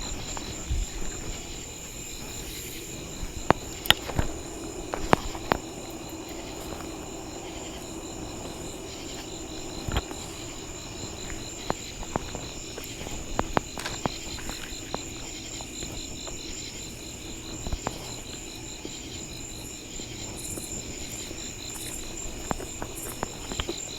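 Steady chorus of night insects such as crickets, trilling in high pulsing tones, with scattered sharp pops and crackles from a burning campfire.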